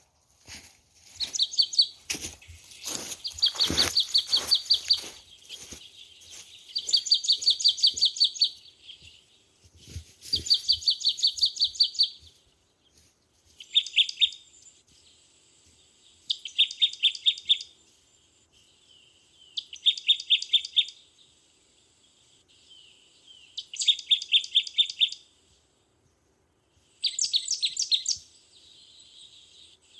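A small bird sings a high, rapid trill over and over, each burst lasting about a second and repeating every few seconds. For the first few seconds and again briefly around the tenth second, dry leaves rustle and crackle underfoot.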